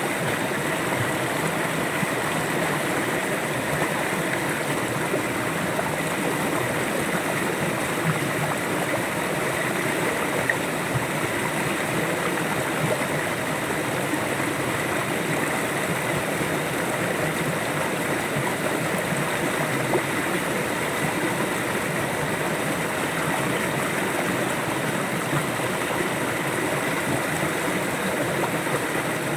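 River water flowing steadily with an even, continuous rush and babble, without pauses or sudden sounds.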